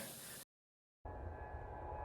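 A brief gap of dead silence, then a recorded airplane sound begins faintly about a second in: a low, steady engine rumble with a thin, steady whine over it.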